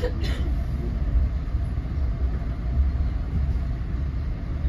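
Steady low rumble of a moving NJ Transit Multilevel rail coach at speed, heard from inside the passenger car.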